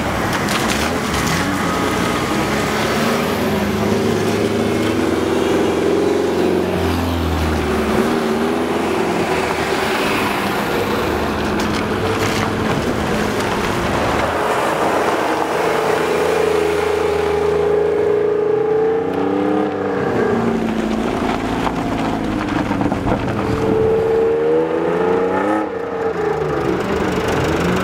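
Car engines revving hard and dropping back over and over, the pitch swooping up and down several times as drift cars are driven sideways.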